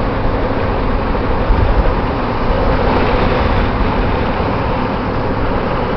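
Steady road and engine noise of a moving car, heard from inside the cabin, with a deep rumble.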